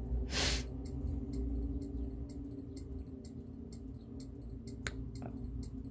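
A pause in speech: one short breath near the start, then a steady low hum with faint, evenly spaced ticks and a single sharp click near the end.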